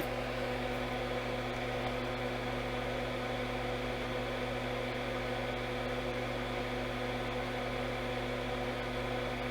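Steady electrical mains hum: an even buzz made of several fixed tones, unchanging throughout.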